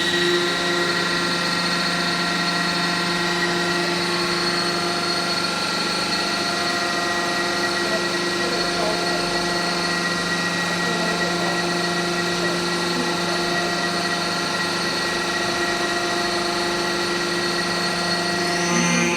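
Pipe-tee forming machine running with a steady machine hum that holds one pitch throughout.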